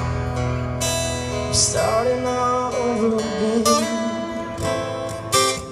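Strummed acoustic guitar carrying an instrumental passage of a country-style song, with a wavering melody line over the chords.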